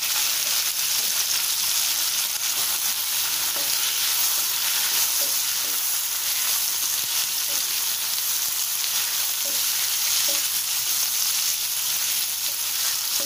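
Sliced brinjal sizzling steadily in hot oil in a nonstick pan, stirred and turned with a wooden spatula.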